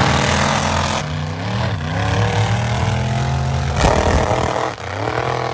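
Tough-truck engines running hard and revving. The pitch climbs in long rises and drops off sharply about a second in and again near four seconds.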